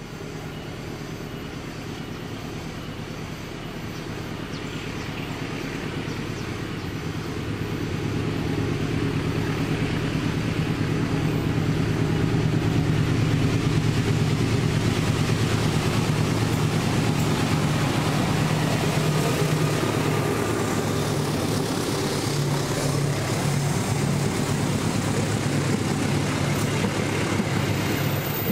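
Diesel-electric locomotive hauling an Argo express passenger train, its engine note growing louder as it approaches and dropping in pitch as it passes about twenty seconds in. After that comes a steady rushing of the coaches' wheels on the rails.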